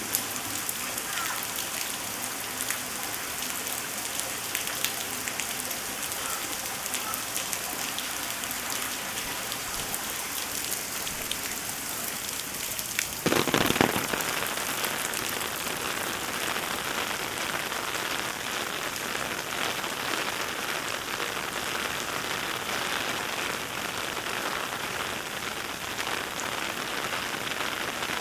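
Steady heavy rain, a dense patter of drops falling on surfaces around the listener. About halfway through there is a brief loud rush lasting about a second, and after it the rain sounds a little heavier.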